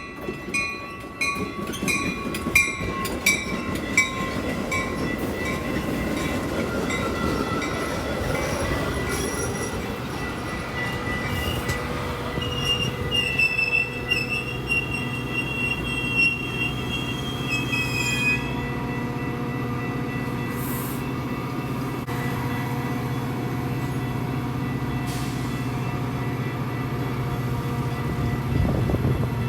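A train at a station, with steady rumble throughout. Evenly repeating bell-like dings sound in the first few seconds. A high metallic wheel squeal runs from about halfway through for several seconds, under a steady low diesel drone.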